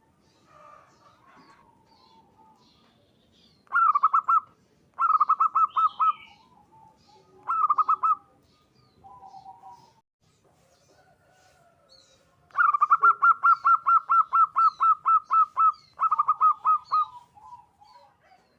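Zebra dove (perkutut) song: quick runs of staccato cooing notes in bursts. The longest run is about three seconds, in the second half. Softer, lower coos and faint high twittering from small birds sound between the runs.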